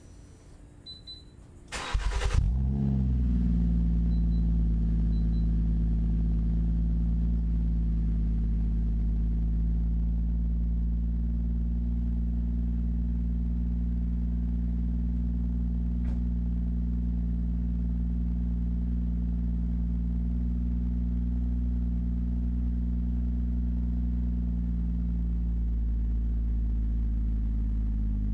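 Ford Fusion Sport's 2.7-litre twin-turbo EcoBoost V6, fitted with a Magnaflow axle-back exhaust, cranking and catching about two seconds in, then idling steadily. The idle settles slightly lower near the end.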